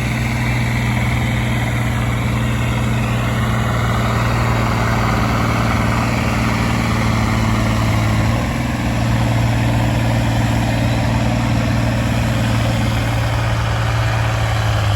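Engine of a pulling tractor or truck running loud and steady, with a brief dip about eight seconds in.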